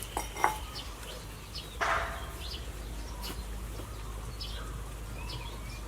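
Small birds chirping repeatedly in short high calls, with a sharp click about half a second in and one brief, louder, rough noise about two seconds in.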